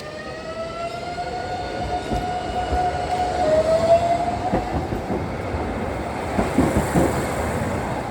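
Electric train pulling away, its traction motors whining and rising in pitch as it accelerates. A few seconds in, the rolling noise of the wheels on the rails grows louder, with a series of knocks as the cars pass over the rail joints.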